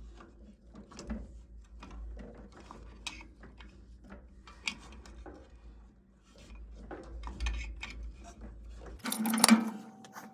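Metal tools and fittings clicking and scraping as an old boiler gas valve is spun off its threaded pipe with channel-lock pliers: irregular small ticks and scrapes over a low hum. The hum stops about nine seconds in, and a louder burst of metal clanking follows near the end.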